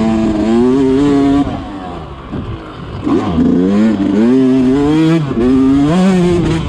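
Two-stroke Yamaha YZ125 dirt bike engine revving up and down on the throttle while riding. It drops off for about a second and a half partway through, then revs up again and keeps changing pitch.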